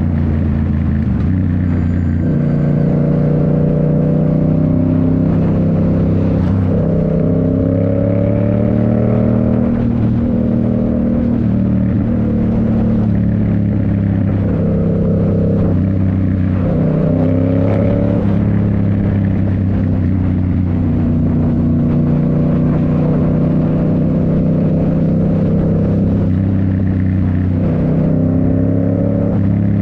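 2019 Yamaha MT-07's 689 cc parallel-twin running through a Toce full exhaust while riding, the engine note stepping up and down many times as the throttle opens and closes and gears change.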